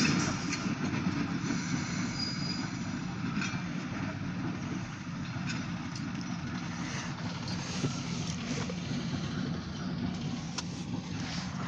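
Alco S-2 diesel switcher's turbocharged six-cylinder 539 engine running, a steady low rumble.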